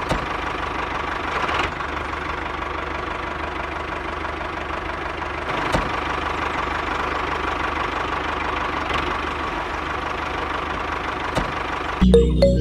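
Miniature toy tractor's motor running steadily as it drives across sand, with a few sharp clicks. Music starts abruptly near the end.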